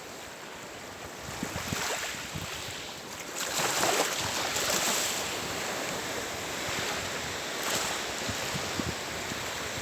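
Sea of Japan surf: waves washing onto the shore, one wave surging loudest about four seconds in and a smaller one near the end, with wind buffeting the microphone.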